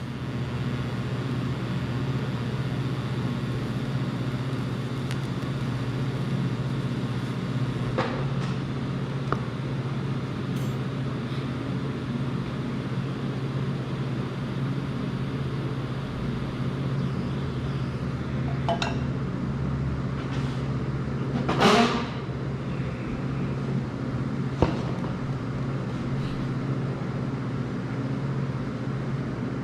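TIG welder running through a long weld on mild steel with ER70S filler rod at about 90 amps: a steady electric hum and buzz. A few light metallic clinks are heard, the loudest about two-thirds of the way through.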